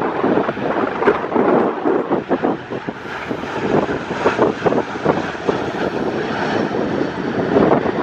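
Jet engines of a Boeing 737-800 landing, a steady rushing engine noise. Strong gusty wind buffets the microphone throughout.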